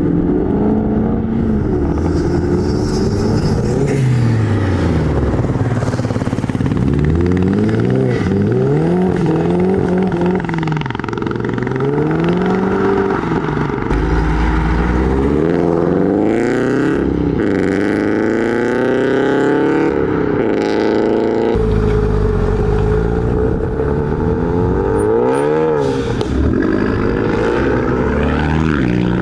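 Modified car engines revving and accelerating away, one car after another, the engine pitch repeatedly climbing and dropping. A deep low rumble comes in twice, about halfway through and again later.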